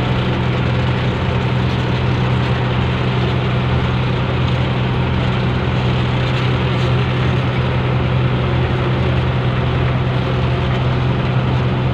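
Fishing boat's inboard engine running steadily, a constant low drone with no change in speed.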